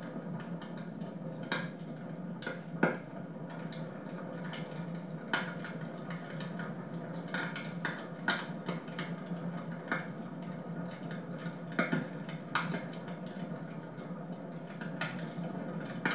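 Wood fire crackling in a fireplace: irregular sharp pops every second or two over a steady background rush.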